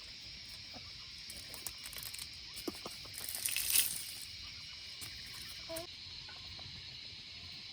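Outdoor ambience with a steady high insect chirring, scattered light taps and rustles, a louder rustle about three and a half seconds in, and a brief short animal call near six seconds.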